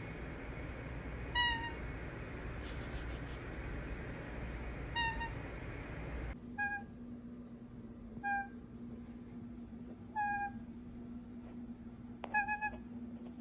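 An animal's short, repeated cat-like calls, each sliding slightly down in pitch, a second or more apart; a steady hum comes in about six seconds in.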